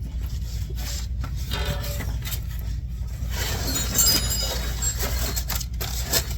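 Metal clinks and scraping as a bolt and nut are fitted by hand on a car's steering idler arm, with a denser stretch of scraping and clinking in the middle, over a steady low hum.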